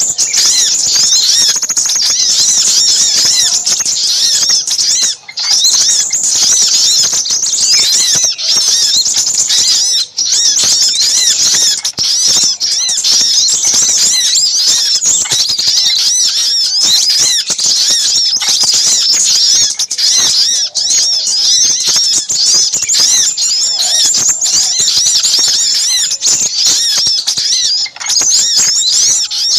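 Dense, unbroken chatter of many overlapping high-pitched chirps and twitters from small birds: a layered bird-lure recording of little spiderhunter calls mixed with crimson sunbird calls.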